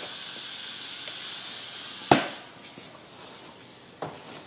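Compressed air hissing steadily into a truck tire during inflation to seat its beads, then a single sharp snap about two seconds in, after which the hiss is fainter.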